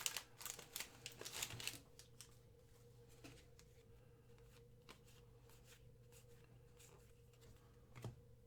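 Trading cards being handled: quick rustling and light clicks for about two seconds, then near silence with a faint steady hum and a few soft ticks, one a little louder near the end.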